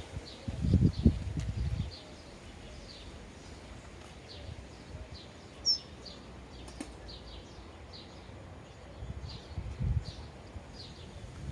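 Sparrows chirping at a feeder: short, repeated chirps about twice a second, with one higher, sharper note midway. Low rumbles come and go near the start and again near the end.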